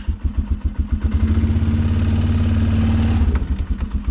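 Small vehicle engine idling just after starting, with distinct, even firing pulses. About a second in it speeds up and runs steadier under load as the vehicle pulls away, then drops back to idle near the end as it stops.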